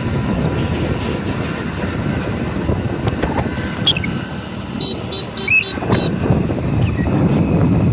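A motor vehicle running on the road with steady rumbling road and wind noise, and a quick run of high beeps about five seconds in.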